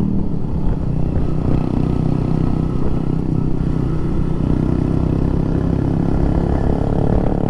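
Suzuki Shogun SP 125 motorcycle's single-cylinder four-stroke engine running at a steady cruise while riding, a constant low drone with no gear changes or revving.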